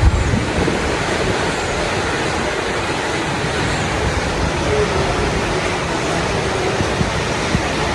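Floodwater from an overflowing lake rushing past in a strong, steady flow.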